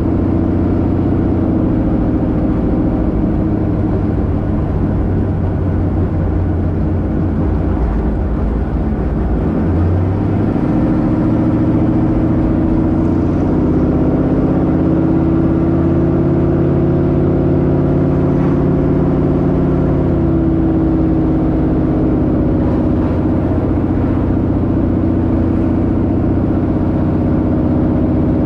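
1972 Plymouth Duster's 408 V8 running while cruising: a steady engine drone whose note changes about ten seconds in, then rises and falls gently.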